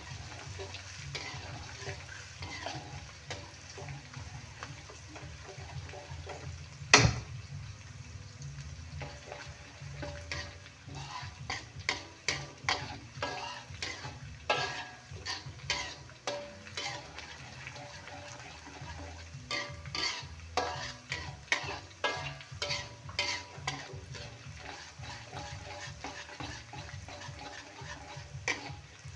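Chopped garlic and shallots frying in hot oil in a wok, a steady sizzle, with a metal spatula stirring and scraping against the pan in frequent clicks. There is one sharp knock about seven seconds in.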